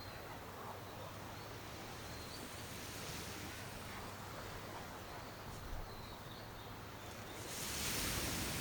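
Outdoor ambience: a steady rushing noise that swells near the end, with a few faint high chirps.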